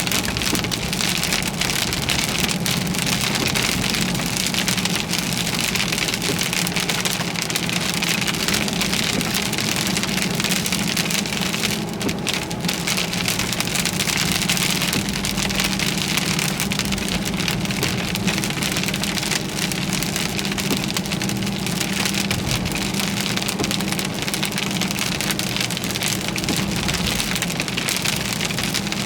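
Heavy rain pelting a moving car in a severe thunderstorm, a dense steady hiss, with a low drone from the car beneath it.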